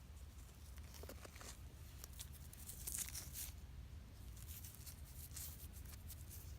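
Faint, irregular scraping and crunching of dirt and small stones being dug away by hand to uncover a buried stone.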